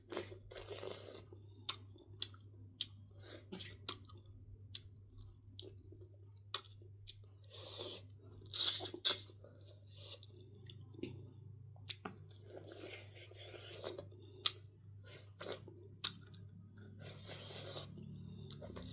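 A person chewing food close to the microphone: irregular crunches, smacks and wet mouth clicks.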